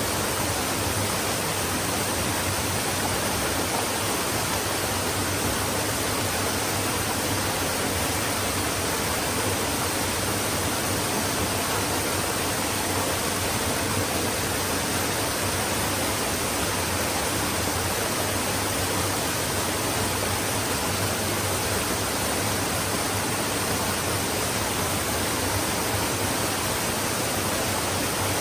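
A flowing stream: a steady, even rush of running water with no separate splashes or other events.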